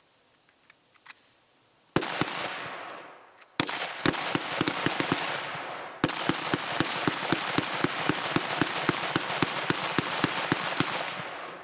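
Two semi-automatic rifles, a Robinson Arms XCR and a Springfield M1A, rapid-firing, each shot echoing. A single shot comes about two seconds in, a few more follow, and then a fast, near-continuous string of shots about five a second runs on until just before the end.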